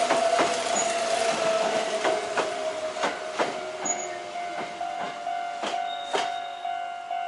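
Kintetsu electric train passing on the Shima Line, its wheels clacking over rail joints in pairs under a steady whine, fading as it moves away.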